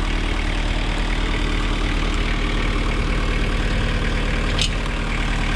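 Kubota four-cylinder diesel engine of a Toro Reelmaster 5410 gang mower running steadily. There is a brief sharp click about four and a half seconds in.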